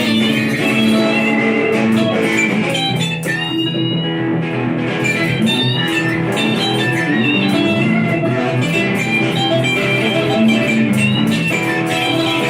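Improvised blues-rock on electric guitar: a lead line with bent, sliding notes over a sustained chordal accompaniment.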